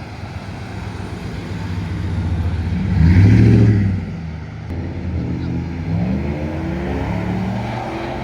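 A performance car's engine accelerating past: the sound builds, peaks in a loud rev about three seconds in, then climbs in pitch again in several short steps.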